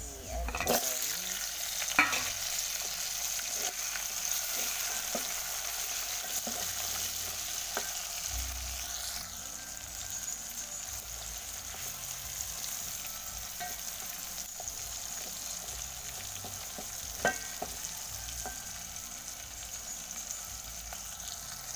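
Onions and beef sizzling in hot oil in an aluminium pot, a steady frying hiss. The stirring spoon knocks sharply against the pot a few times, loudest about two seconds in and again near the end.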